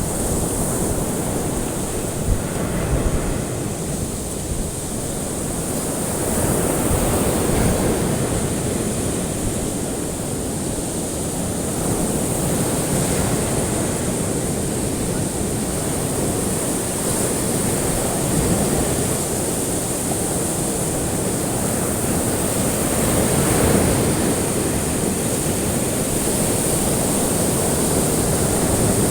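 Ocean waves washing on a shore, a steady surf noise that swells and falls back every few seconds, with a faint steady high hiss above it.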